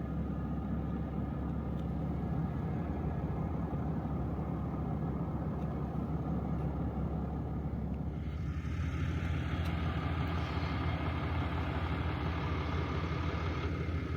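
Truck engine running steadily while driving. About eight seconds in the sound changes, with more hiss in the upper range.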